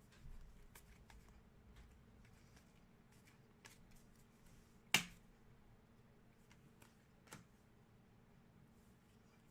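Trading cards being handled: faint light rustling with a few sharp clicks and snaps, the loudest about five seconds in and another about two seconds later.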